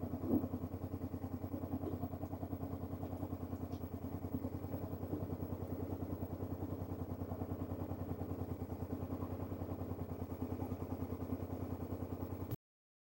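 Motorcycle engine idling steadily with an even, rapid pulse and no revving. It cuts off suddenly near the end.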